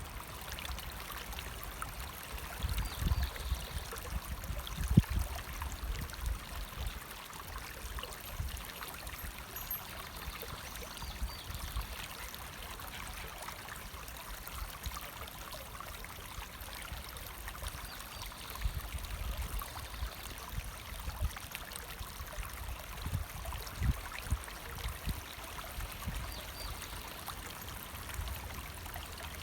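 A stream running steadily, an even rush of water, with irregular low rumbles and a single thump about five seconds in.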